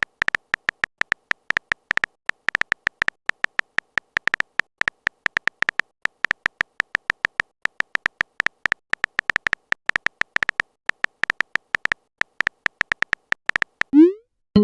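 Rapid, irregular short beeping clicks of a phone-typing sound effect, like keys being tapped on a messenger keyboard. Just before the end a quick rising pop sounds, like a message-sent notification.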